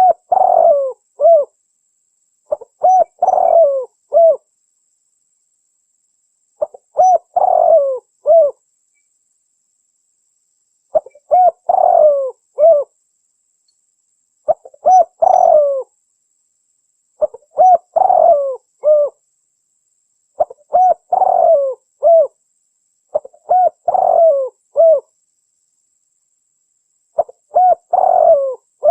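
Spotted dove (tekukur) cooing: a short phrase of several low coos, the last set apart, repeated every three to four seconds with full silence between phrases. It is a recorded call played as a lure for spotted doves.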